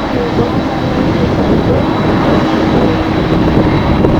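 Jet airliner engines running steadily, with a constant low hum and a faint high whine, under strong wind buffeting the microphone.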